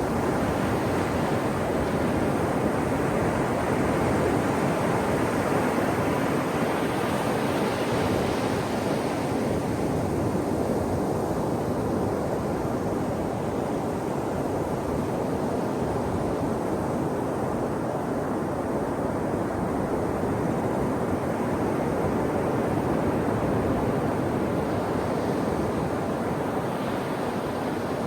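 Ocean waves breaking and washing on a shore: a continuous rush of surf that swells and eases, with a brighter surge in the first third and another near the end.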